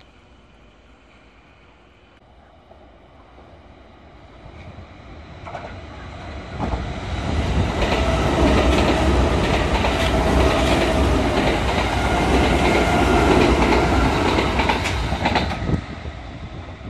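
Red-and-white Kintetsu electric train passing through the station without stopping. The rumble grows over the first several seconds as it approaches, then holds loud wheel-and-rail noise with clicks over the rail joints, and tapers off near the end as it moves away.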